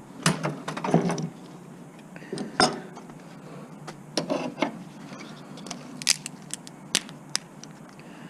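Small metal parts and hand tools clinking and clattering as an electronic unit is taken apart for scrap: short spells of rattling in the first few seconds, then a handful of sharp single clicks.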